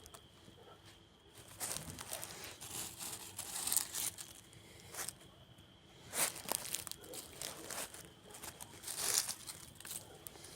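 Campfire wood burning, crackling with irregular sharp pops and snaps, in louder flurries about four, six and nine seconds in.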